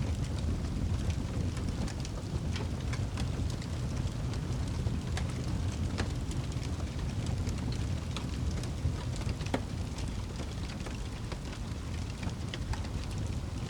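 Wood fire burning in a fireplace: a steady low rumble of the flames with many scattered sharp crackles and pops.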